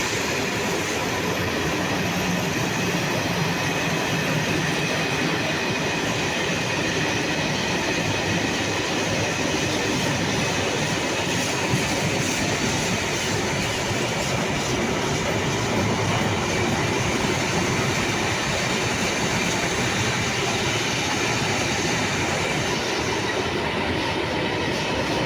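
Freight train rolling past, with a steady, continuous noise of the wagons' wheels on the rails.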